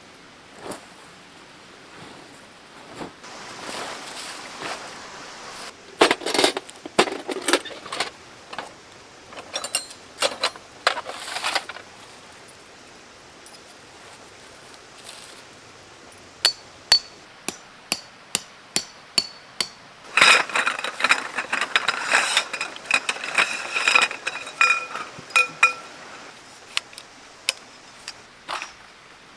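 Metal camp gear being handled: clinks and knocks, then a run of evenly spaced ringing metal taps about two a second, then a few seconds of dense ringing metallic clatter.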